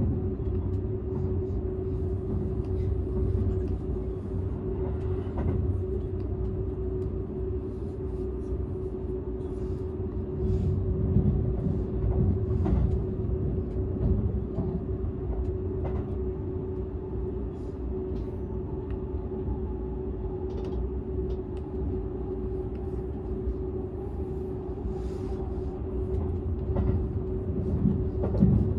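Interior running noise of a Seibu 001 series Laview express, heard inside an unpowered control trailer (Tc) car: a steady low rumble with a constant hum and scattered light clicks from the wheels and track.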